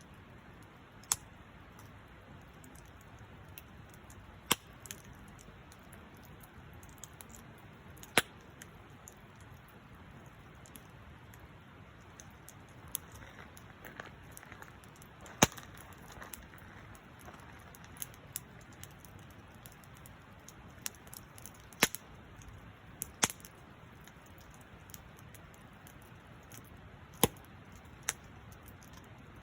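Wood bonfire crackling: sharp pops at irregular intervals, a few seconds apart, over a low steady hiss.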